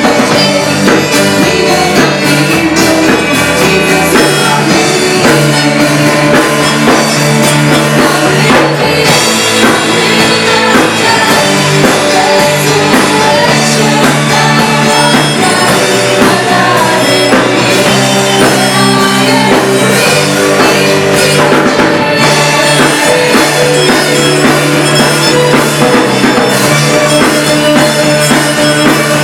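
A live worship band playing, with drum kit, instruments and singing.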